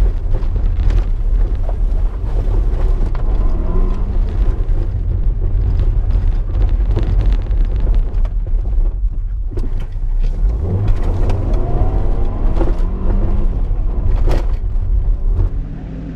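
A small four-cylinder car's engine worked hard on a dirt autocross run, its revs climbing and falling several times over a heavy low rumble.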